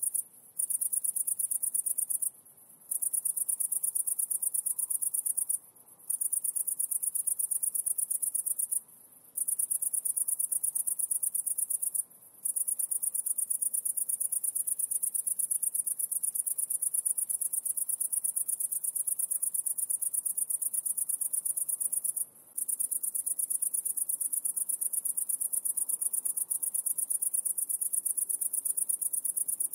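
An insect's high-pitched trill: a continuous, very fast pulsing buzz that breaks off for about half a second six times, twice in the first three seconds and last about twenty-two seconds in.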